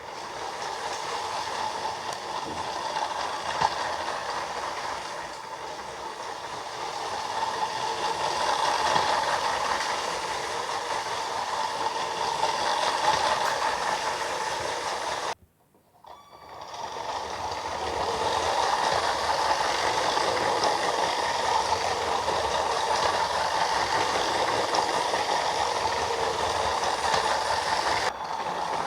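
Motorised Lego City passenger train running along its plastic track, a steady whirring rattle. It cuts out abruptly about halfway through and picks up again a second or so later.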